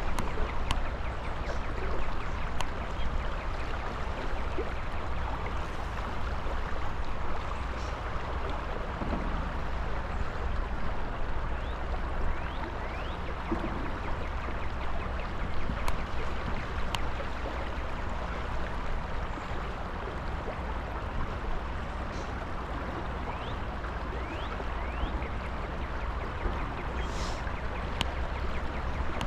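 Steady rush of flowing river water, with a few faint ticks here and there.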